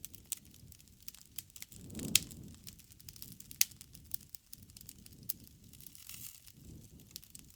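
Wood fire crackling: a steady low rumble of the flames with many small snaps and two sharp pops, about two and three and a half seconds in.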